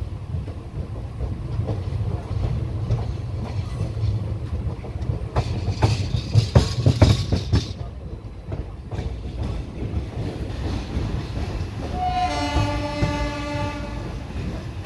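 Moving Indian Railways passenger coach heard from its open door: a steady low rumble of wheels on rail, with a run of sharp clanks about halfway through as the wheels cross joints and points. Near the end a train horn sounds one steady note for about two seconds.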